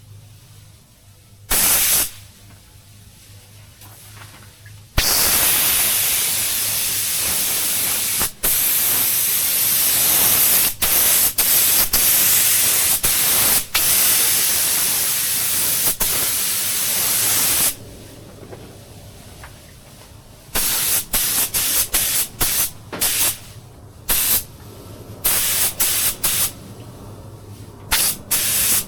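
Compressed-air paint spray gun hissing as the trigger is pulled, laying a second coat of black paint over primer. There is a short burst about two seconds in, then a long pass of about twelve seconds with brief breaks, then a run of short on-off bursts near the end.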